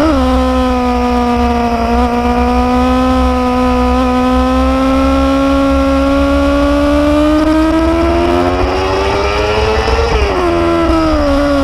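Motorcycle engine running at a steady pace. Its pitch climbs gradually, then drops quickly about ten seconds in as the throttle comes off or it shifts. A steady low rumble lies underneath.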